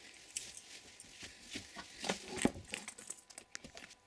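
Irregular small knocks, clicks and rustles of a plastic fidget spinner being handled and set down under a bed, with the firmest knock about two and a half seconds in.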